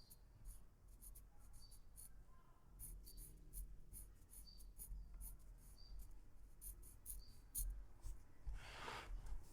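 Pencil scratching on paper in short, faint shading strokes, with one longer rub near the end.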